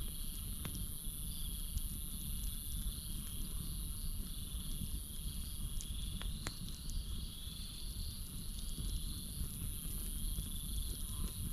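Campfire crackling, with a few sharp pops over a steady low rumble. A continuous chorus of crickets and other night insects trills in two high-pitched bands.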